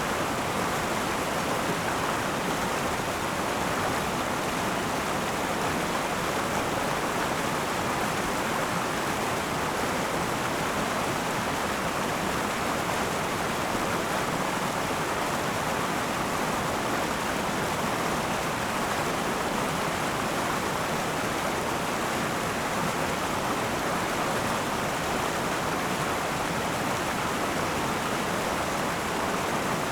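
River water flowing and rushing over rocks: a steady, even rush with no breaks.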